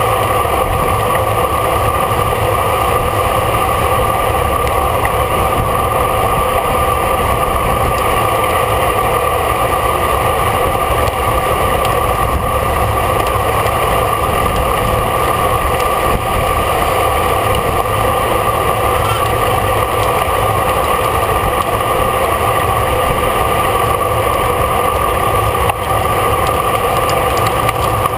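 Steady wind rush and road noise from a racing bicycle riding at speed, heard on the rider's own camera, with a low rumble and a few constant tones.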